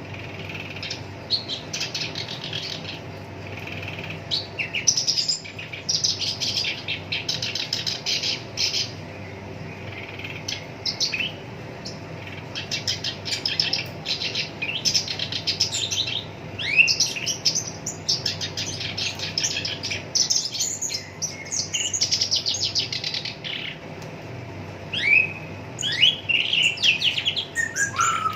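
Black-browed reed warbler singing: a long run of rapid, harsh chattering and rattling phrases with brief pauses, and a few quick rising slurred notes near the end.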